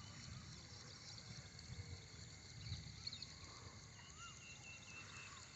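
Near silence: faint outdoor ambience, with a short run of faint high chirps about four seconds in.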